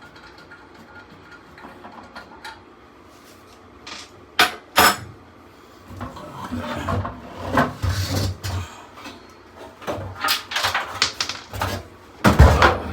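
Metal clanks, clicks and rattles of tools and sheet-metal parts as a furnace blower assembly is worked loose for removal. The first few seconds are quiet, the clatter starts about four seconds in, and there is a louder knock near the end.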